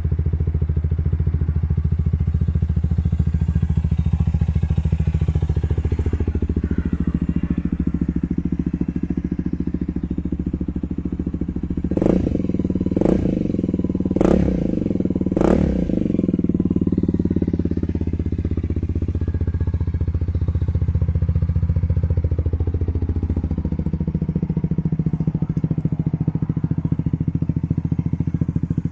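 2017 Honda Rebel 250's single-cylinder engine idling steadily, blipped four times in quick succession about halfway through, each short rev rising in pitch and then falling back to idle.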